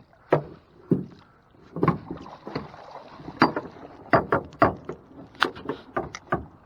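A hooked bowfin thrashing in a small boat, its body knocking and slapping against the hull: a string of irregular sharp knocks, a dozen or so over several seconds.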